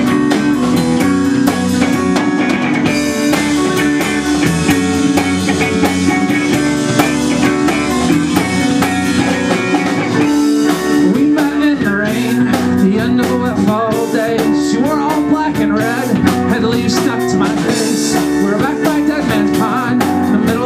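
Instrumental band music: electric guitar over a drum kit with a steady beat, getting busier with quick picked guitar notes about halfway through.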